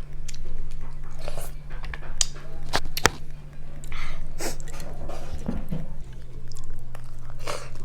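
Close-up mukbang eating: wet chewing broken by irregular sharp crunches from biting into crispy fried chicken. A steady low hum runs underneath.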